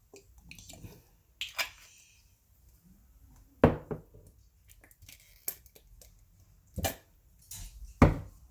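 Sharp clicks and snaps of fence wire being cut and handled with hand tools, about six in all at irregular intervals.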